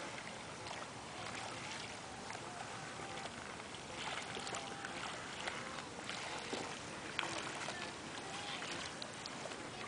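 Water sloshing against a stand-up paddle board and its paddle as it moves along a river: a steady wash of water noise with small splashes.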